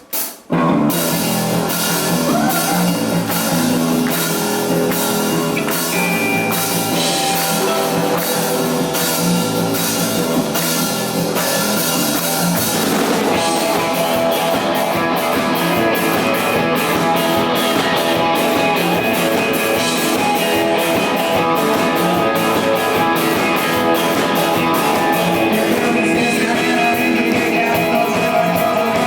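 Live rock band playing loud with drum kit and electric guitar. A few drum hits open it, and the full band comes in under a second in. The drumming gets busier about halfway through.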